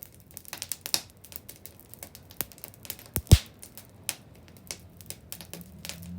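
Wood bonfire crackling, with irregular sharp snaps and one loud pop about halfway through.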